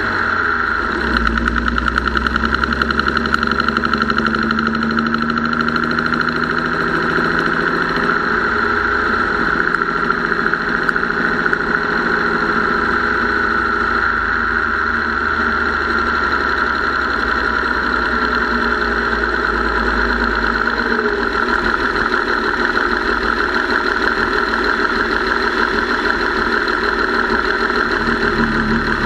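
Gasoline engine running steadily at idle with a fast, even top-end ticking. The ticking is the noise the owner first put down to the lifters and rockers or the mechanical fuel pump, and now suspects comes from a tired or weak valve spring.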